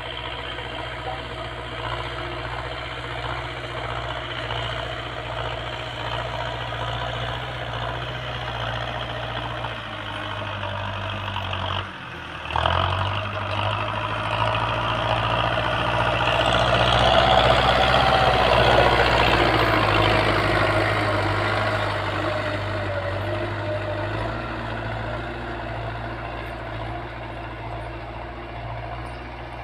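Tractor's diesel engine running as it pulls a plough through the field. It drops for a moment about twelve seconds in, then grows louder, is loudest a little past the middle, and slowly fades.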